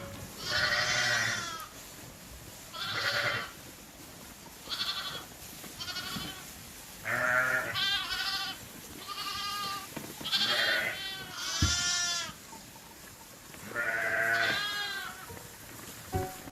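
Sheep bleating: a series of about nine bleats, some short and some over a second long, with gaps between them.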